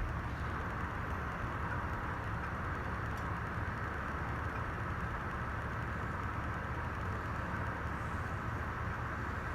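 Casablanca 19th Century ceiling fan running steadily, an even, unchanging noise of the motor and blades turning.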